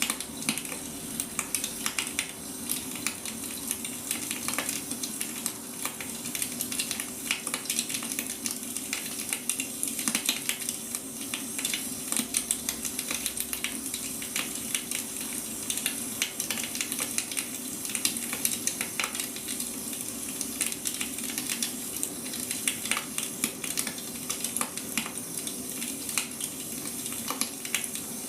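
Firewood burning: a continuous crackle of irregular sharp snaps and pops over a steady hiss, with a faint steady hum underneath.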